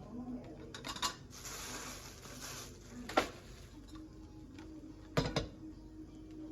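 Cookware and utensils handled during cooking: a few light clicks, a brief hiss, then a sharp knock about three seconds in and a quick double knock a couple of seconds later.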